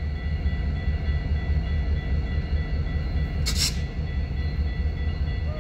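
CN diesel freight locomotives running past, a steady low rumble from the engines, with a short hissy burst about three and a half seconds in.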